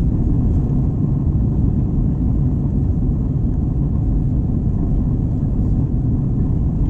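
Steady low rumble of an Airbus A321's engines and rushing air, heard from inside the passenger cabin.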